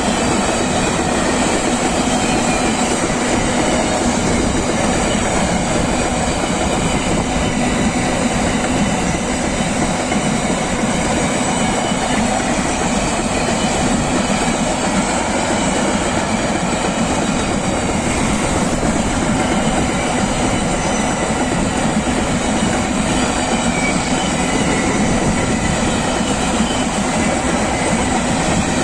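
Freight train wagons rolling past close by: a steady, loud rumble of steel wheels on rail, with faint high whines that come and go.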